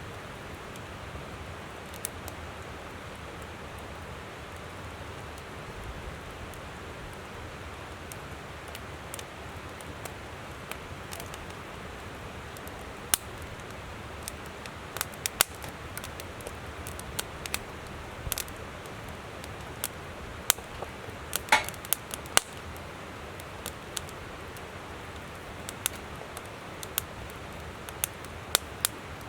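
Firewood crackling in a campfire: sharp pops and snaps, sparse at first and coming more often in the second half, over the steady rush of a flowing river.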